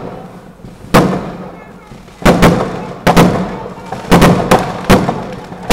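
Fireworks exploding overhead: about eight sharp bangs, some in quick pairs, each trailing off in an echoing decay, starting about a second in.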